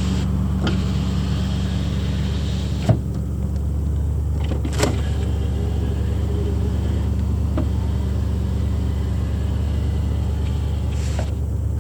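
1987 Oldsmobile 442's V8 idling steadily, with a few sharp clicks.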